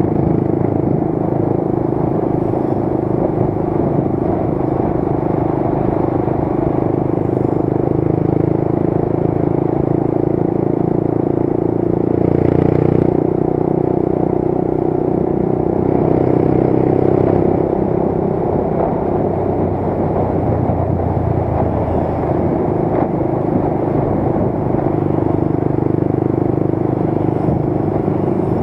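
Motorcycle engine running at a steady cruise during a ride, with road and wind noise, swelling louder twice partway through.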